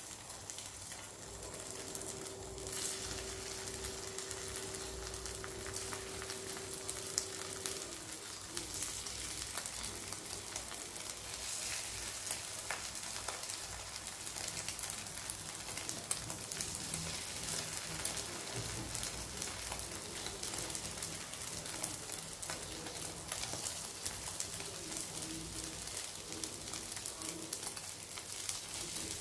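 Luncheon meat frying in hot oil in a pan: a steady sizzle with fine crackling.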